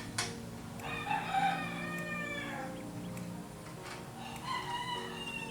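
A rooster crowing twice, each crow a long, slightly falling call of about one and a half seconds or more, over a steady low hum. There is a sharp click just after the start.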